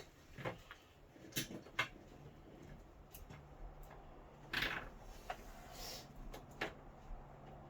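Scattered clicks and knocks of hand work with small hardware, the clamps, nuts and bolts that hold a rear window to a side-by-side's roll cage, with a short scrape about four and a half seconds in. A steady low hum runs underneath.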